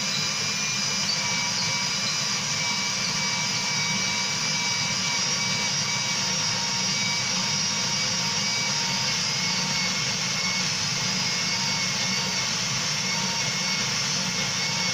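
Electric drill spinning a manual coffee grinder through a threaded bar in its chuck, grinding coffee beans; the motor runs at one steady speed.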